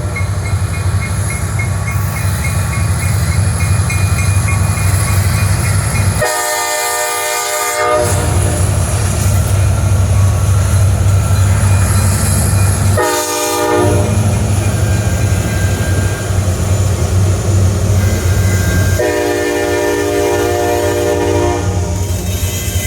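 Diesel locomotive horn on a coal train sounding three blasts, long, short, long, over the steady low rumble of the train.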